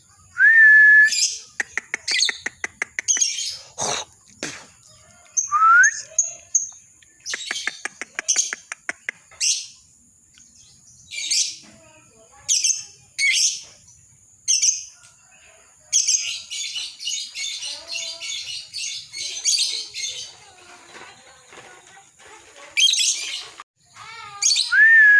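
Lovebird chattering: sharp shrill chirps broken up by quick clicking runs, with a longer unbroken stretch of chatter about two-thirds of the way through, the "ngekek" song. A short rising whistle comes near the start and again at the end.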